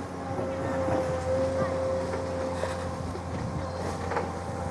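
Excavator's diesel engine running steadily, with a thin steady whine held over the low hum.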